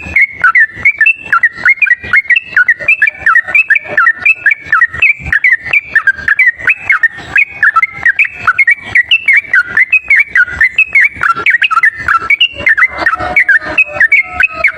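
Yellow-vented bulbul (trucuk) singing a continuous rapid 'ropel' song, a lure call: quick warbling notes, several a second, running on without a pause.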